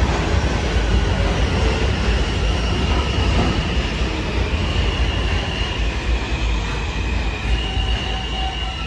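R160 subway train running on the rails, a steady low rumble, with faint high wheel squeal tones coming in over the second half.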